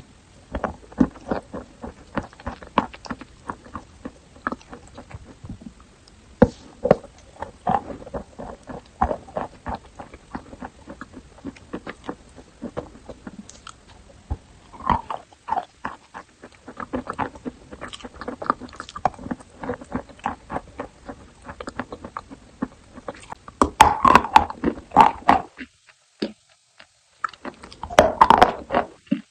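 Close-miked biting and chewing of AIYM chalk: a dense run of irregular crisp crunches, with two louder spells of crunching near the end separated by a short pause.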